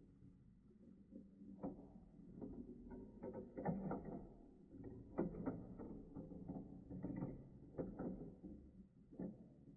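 Plastic marble run pieces clicking and knocking together in irregular taps, a few a second, over a low rumble.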